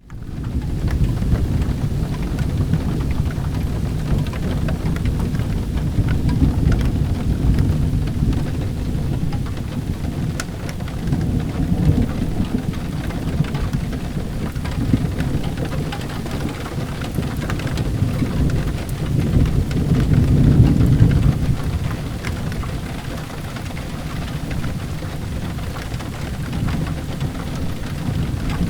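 Steady rain with low rolling thunder that swells several times, loudest about twenty seconds in.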